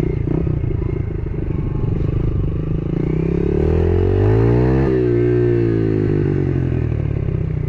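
Yamaha TT-R110E pit bike's 110cc four-stroke single-cylinder engine running at low revs. About halfway through it revs up and then drops back down.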